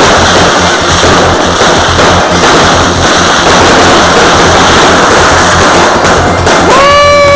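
Fireworks going off in a dense, continuous barrage of crackles and bangs, very loud, mixed with music. Near the end a single held note sounds for under a second and then falls away.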